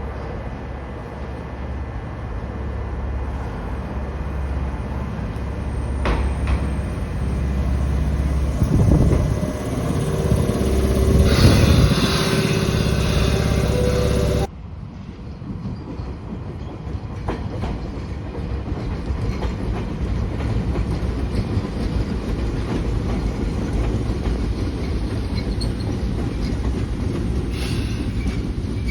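Chichibu Railway electric train running along the track, its rumble and wheel noise building to a peak with a steady motor whine. About halfway through, the sound cuts off abruptly and a steadier rumble follows.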